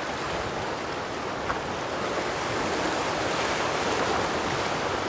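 Waves and rushing water, a steady wash with wind on the microphone, growing a little louder in the middle.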